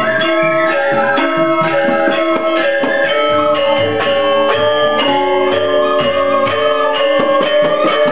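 Balinese gamelan orchestra playing dance music: a dense, quick run of struck bronze metallophone notes over sustained ringing tones.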